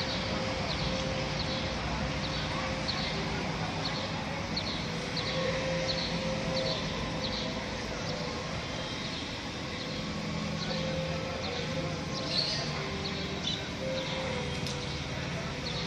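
Steady drone of a distant light aircraft's propeller engine, its pitch holding level, while a small bird chirps repeatedly in short high notes about once or twice a second.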